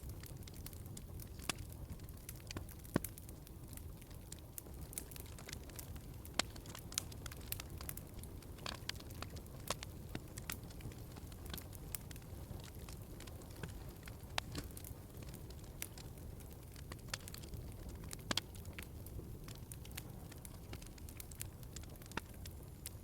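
Wood fire crackling, with sharp pops at irregular intervals over a low, steady rumble.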